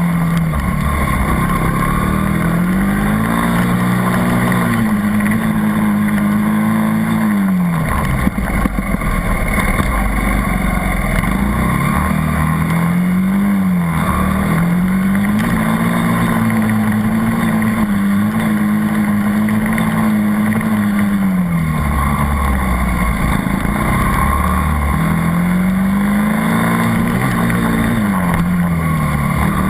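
80cc dirt bike engine revving up and backing off in repeated cycles: the pitch climbs, holds at speed, then drops, three times over, as it laps a track. About eight seconds in, the engine note falls away sharply for a moment.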